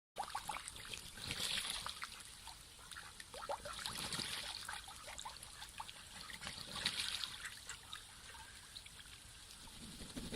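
Water trickling and splashing as ducks bathe and dabble in shallow water. The small splashes are irregular, and there is a stronger splash near the end.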